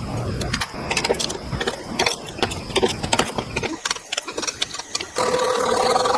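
Rapid irregular clicking and tapping, then a steady motor hum that starts about five seconds in.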